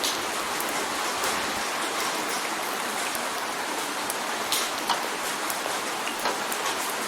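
Rain drumming on a window: a steady hiss with many scattered sharp drop ticks.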